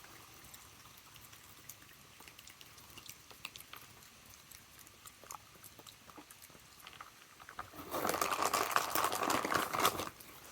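A raccoon chewing peanuts: faint scattered crunches, then a louder, dense stretch of crunching near the end.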